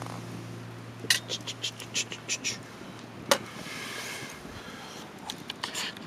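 Background music fading out, followed by a run of irregular sharp clicks and light knocks, one louder click about halfway, and a few more near the end.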